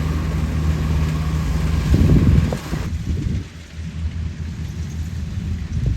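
Kubota 105 combine harvester running with a steady engine drone. About two seconds in, a louder low rumble comes through, and a second later the sound drops suddenly to a quieter, duller rumble.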